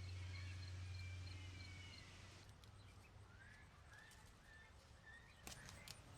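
Faint bird chirps and short rising calls over a low steady hum that fades after about two seconds, with a few sharp clicks near the end.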